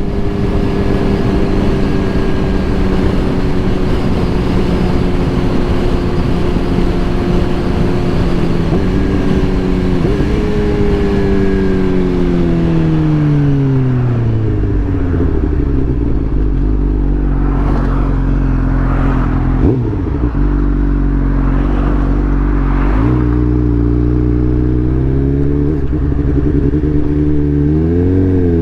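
Suzuki GSX-R 750 inline-four running through a new M4 full exhaust. The engine holds a steady speed for several seconds, then its pitch falls slowly to a low, steady note. It is blipped up several times near the end.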